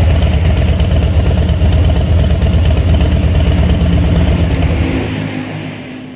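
Harley-Davidson Low Rider S's Milwaukee-Eight 117 V-twin idling steadily with a pulsing beat through a Pitbull Cycle aftermarket exhaust; the sound fades out near the end.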